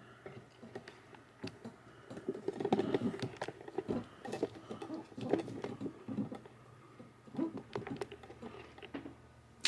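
Handling noise of a camera being picked up and set back in place: scattered light taps, clicks and soft rustles.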